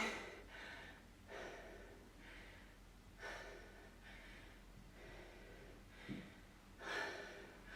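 Heavy breathing after exertion, faint breaths coming about once a second.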